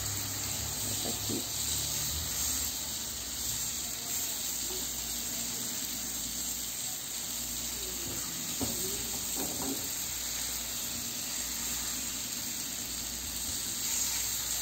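Banana halves frying in fat in a nonstick frying pan, a steady sizzle, with a few light scrapes of a plastic spatula as they are turned.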